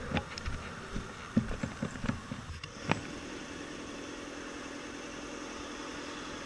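A vehicle engine idling steadily, with a few short clicks and knocks in the first three seconds.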